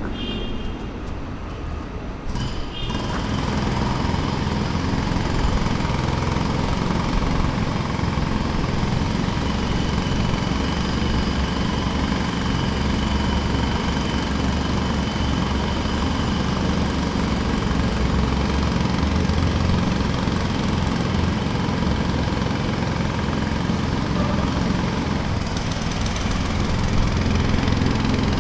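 Jackhammer running steadily at a construction site, with an engine drone under the rapid hammering. It grows louder about three seconds in and then holds steady.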